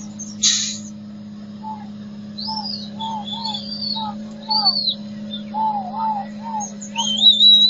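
Birds calling in short, arched notes repeated many times, with higher warbling phrases that are loudest about seven seconds in. A steady low drone runs underneath, and a brief hiss comes about half a second in.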